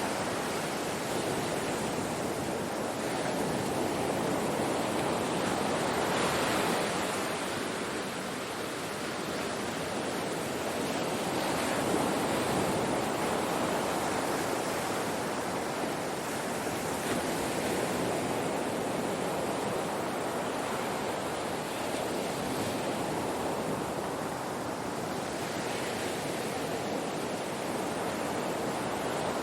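Ocean waves breaking on a shore, a steady rushing wash that swells and eases every few seconds.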